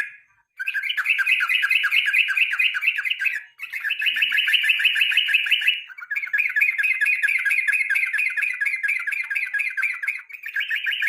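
Yellow-vented bulbul (trucukan) singing in long runs of rapid, evenly repeated chattering notes, each run lasting several seconds and broken by three short pauses.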